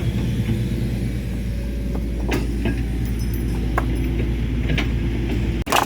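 A large engine running steadily, with a few sharp knocks over it. It breaks off abruptly near the end.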